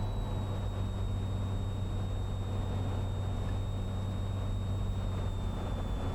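Cessna 182 Skylane's piston engine and propeller droning steadily, heard inside the cabin, with a faint thin whine that sinks slowly in pitch.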